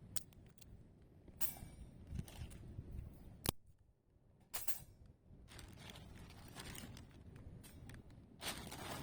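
Campfire burning bull thistle in a fire pit: a low steady rumble of the flames with scattered crackles and pops, one sharp pop about three and a half seconds in.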